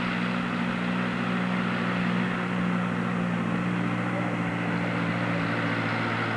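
Tractor engine running steadily, with a slight shift in pitch partway through.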